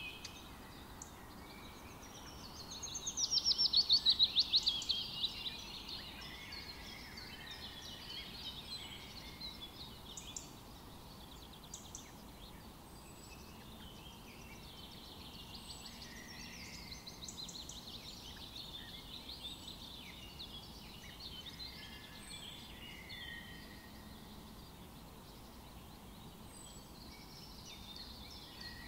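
Several birds calling and singing over a low outdoor hiss, the loudest a rapid trill about three seconds in that lasts about two seconds and falls slightly in pitch, with faint short high chirps every few seconds.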